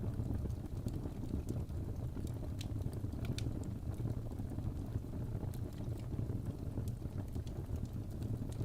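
Wood fire burning in a fireplace: a steady low roar of the flames with sparse, sharp crackles and pops.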